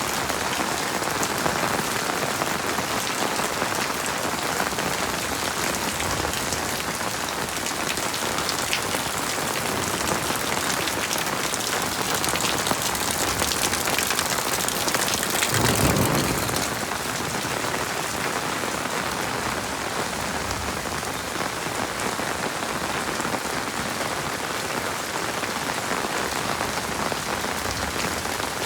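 Heavy rain falling steadily, a dense, even patter. About halfway through, a brief louder whoosh swells and fades within a second or two.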